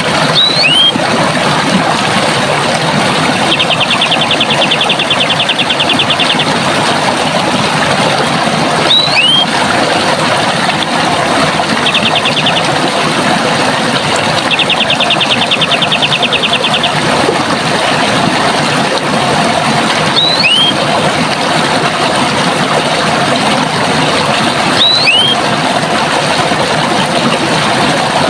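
Running water with a steady rush, with birds calling over it: a short two-note whistled call four times, and a fast, even trill three times, the longest lasting about three seconds.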